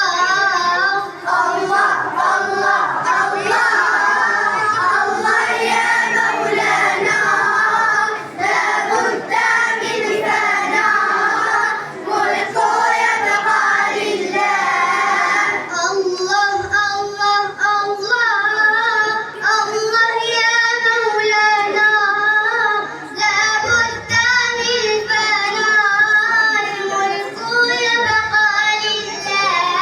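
A child singing, one melodic phrase after another with long held notes.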